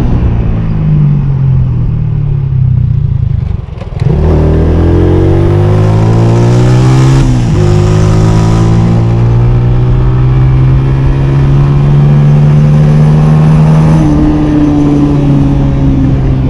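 Honda CG 125's single-cylinder four-stroke engine pulling hard: the pitch climbs steeply, falls at a gear change, then holds steadier at speed with another rise near the end.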